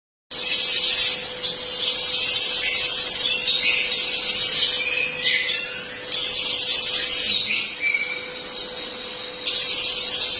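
A young songbird singing long, rapid, high-pitched twittering phrases, with a few lower whistled notes, broken by short pauses. A faint steady low hum lies underneath.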